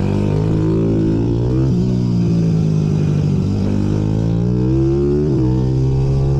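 Several small minibike engines running at once, their pitches rising and falling against one another as riders open and close the throttle, with a quick drop and climb in revs about five seconds in.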